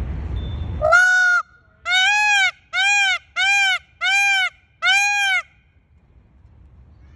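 Indian peafowl (peacock) calling: a series of six loud, honking calls, each about half a second long and arching up and then down in pitch.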